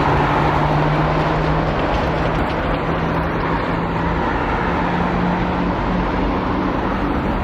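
Jet aircraft engines running, a steady loud rush with a low hum under it.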